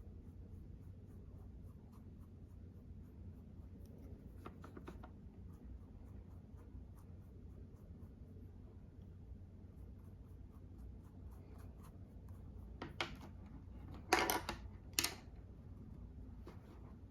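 Makeup being applied to a mannequin: light scratching and rubbing strokes over a low steady hum, with two louder scraping strokes near the end.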